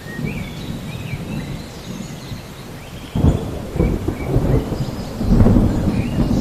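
Rain falling with rolling thunder: a low rumble that swells suddenly about three seconds in and grows louder again near the end. Faint bird chirps sound above it.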